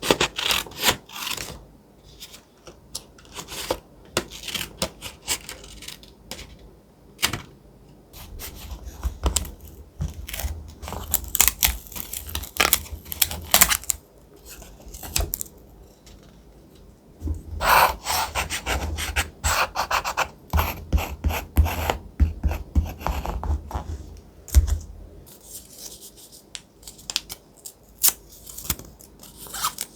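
Thick paper being handled and cut for collage journaling: quick, irregular rustles, scrapes and snips. A low rumble runs underneath through the middle of the stretch.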